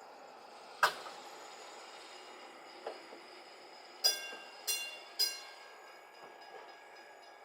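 A sharp clack about a second in, then a PCC streetcar's bell struck three times in quick succession, each strike ringing on. Three bells is the streetcar signal for moving backwards.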